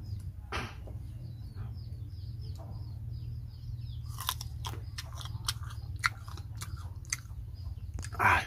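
Young, green tamarind pod bitten and chewed, a run of crisp crunches starting about four seconds in, with a louder burst near the end.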